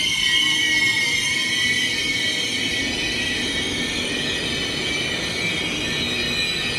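Intercity passenger train pulling into a station, its wheels and brakes giving a steady high-pitched squeal over the rumble of the cars as it slows to a stop.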